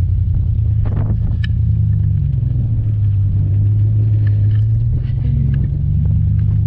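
Pickup truck engine and drivetrain running steadily at low speed, a low rumble whose pitch rises a little about two seconds in.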